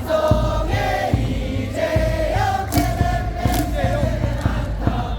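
Baseball crowd in the stands singing a cheer song together over amplified stadium music with a steady thumping beat.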